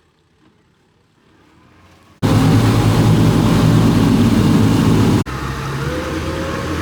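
Quiet for about two seconds, then suddenly the loud, steady running of a speedboat's engine with rushing wind and water. The sound cuts at about five seconds to a slightly quieter stretch of the same.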